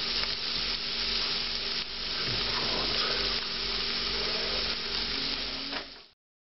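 Sliced pancetta, shallot and caramelized fennel sizzling in butter in a pot on the stove, a steady frying hiss that cuts off about six seconds in.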